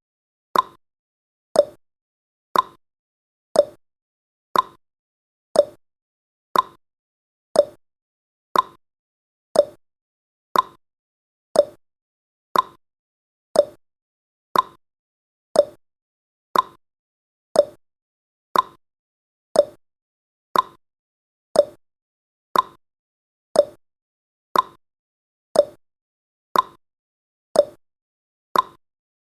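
Countdown timer's ticking sound effect: short, sharp ticks exactly once a second, alternating higher and lower in pitch like a clock's tick-tock.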